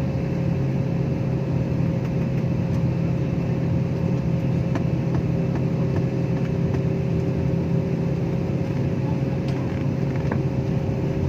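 Steady mechanical drone: an engine or machine running evenly, with a low hum and a thin higher tone held throughout.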